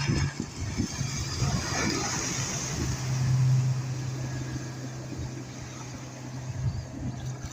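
Boat engine running with a steady low hum that grows louder for a moment about three seconds in.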